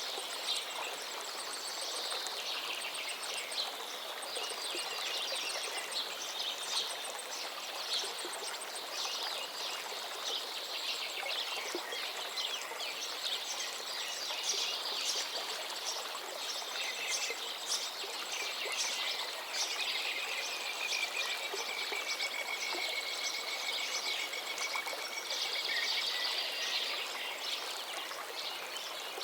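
Several songbirds singing at once, with a long, even trill about two-thirds of the way through, over the steady rush of a flowing river.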